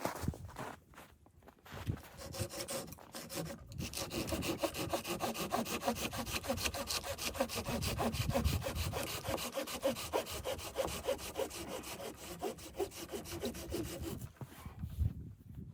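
Hand saw cutting through wood in quick, steady back-and-forth strokes, which stop a little before the end.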